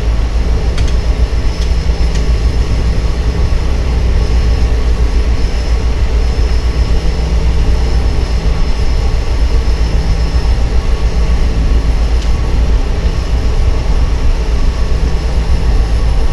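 Cessna 208 Caravan's Pratt & Whitney PT6A turboprop engine and propeller running steadily, a deep even drone with a faint high whine above it, heard from inside the cockpit.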